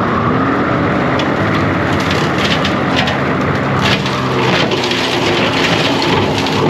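John Deere 333G compact track loader's diesel engine running steadily under load while clearing brush, with wood cracking and splintering repeatedly, thickest from about two and a half seconds in.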